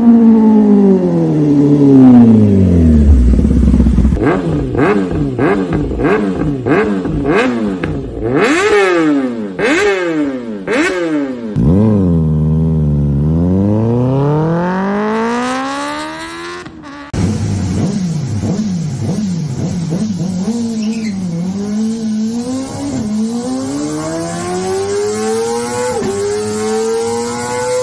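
Kawasaki Ninja inline-four sportbike engines revving hard: the note falls away, then comes a string of sharp throttle blips about once a second and a long rise and fall in pitch. About two-thirds of the way through it cuts suddenly to a second bike revving in smaller blips, climbing slowly in pitch near the end.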